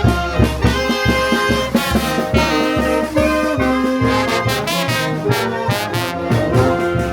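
Peruvian brass band playing: trumpets and trombones sounding sustained melody notes over a steady low drumbeat of about two strikes a second.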